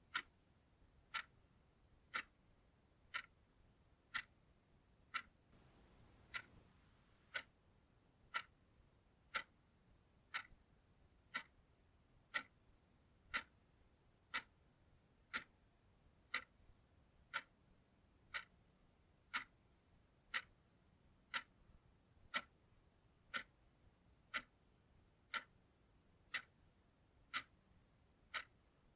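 Clock ticking steadily, one short, sharp tick each second.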